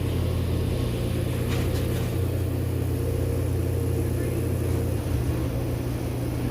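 Vehicle engine running steadily, a low, even hum.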